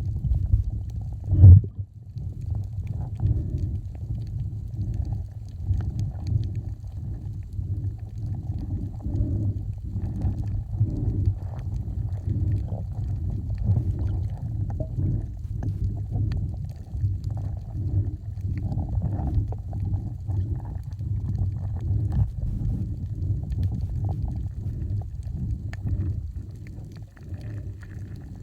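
Muffled underwater sound picked up by a camera under the water: low rumbling and sloshing of water that pulses unevenly, with one sharp knock about a second and a half in.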